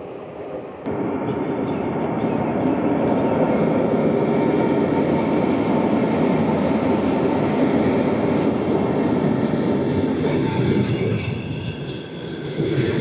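Train rolling past along a station platform: a steady rumble of wheels on rail that swells after about a second, holds, eases off and picks up again near the end.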